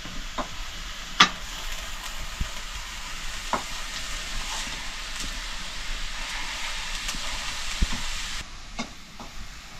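Food frying in hot oil, a steady sizzle, with a few sharp clicks and knocks of a utensil against the pan, the loudest about a second in. The sizzle drops away near the end.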